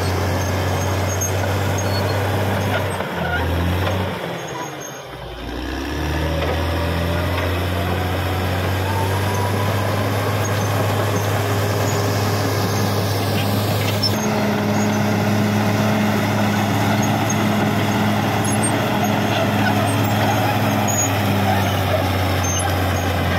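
Caterpillar D6R XL bulldozer's diesel engine running under load; its pitch dips about four seconds in and then rises back to a steady working speed.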